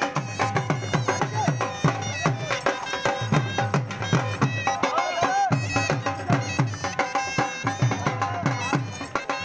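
Dhol drumming a fast, steady beat, with deep bass strokes and sharp higher strokes, and a wavering melody over it.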